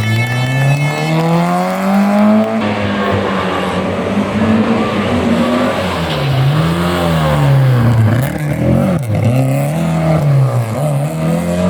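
Historic rally car engines revving hard, the pitch climbing and falling repeatedly as the drivers accelerate, lift off and change gear. There is an abrupt change about two and a half seconds in.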